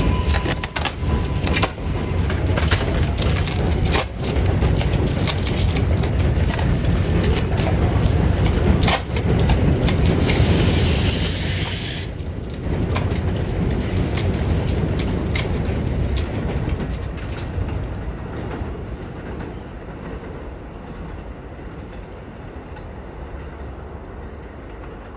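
R188 subway train running past, a heavy steady rumble with occasional sharp knocks and a high hiss that stops abruptly about halfway through; the sound then fades steadily as the train moves away.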